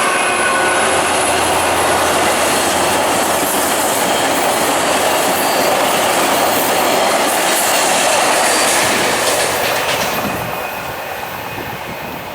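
VIA Rail LRC passenger coaches rolling past at speed, a steady rush of wheels on rail with clickety-clack. It fades away from about nine seconds in as the end of the train goes by.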